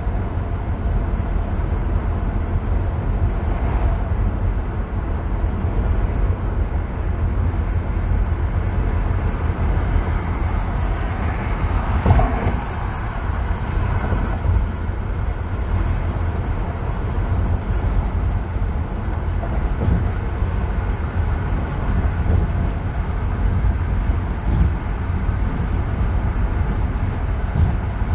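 Freeway driving road noise: a steady, deep rumble of tyres and engine at cruising speed. About twelve seconds in it swells briefly and ends in a sharp knock.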